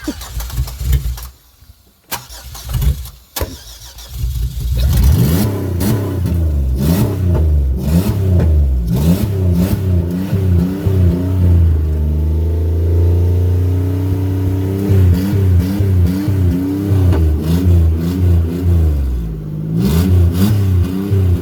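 Buick Century's engine stumbling in uneven bursts at first, then catching and being revved over and over, the pitch rising and falling, with one longer held rev in the middle.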